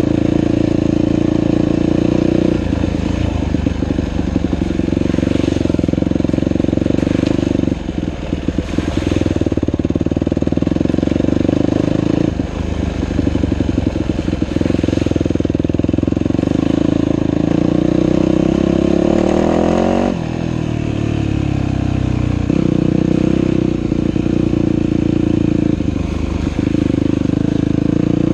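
Dirt bike engine running under changing throttle on a trail ride, the revs dropping and picking up again several times, with the deepest dip and climb about twenty seconds in.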